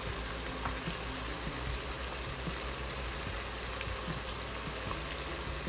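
Chicken pieces frying in a pot on medium heat, sizzling steadily, with a few faint crackles.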